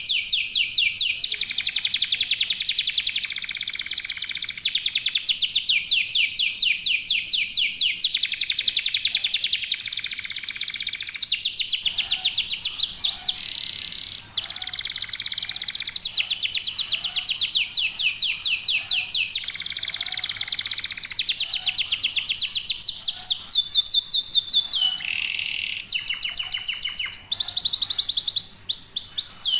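Domestic canaries singing continuously, fast trills and rolls of rapidly repeated high notes that change pattern every second or two, with several birds singing at once.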